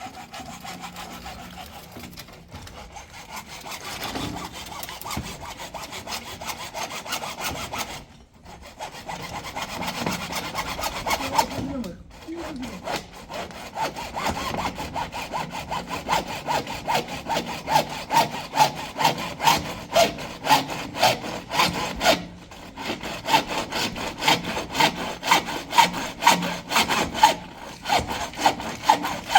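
Steady back-and-forth rasping strokes on wood, about two strokes a second, stopping briefly a few times and growing louder and more regular in the second half.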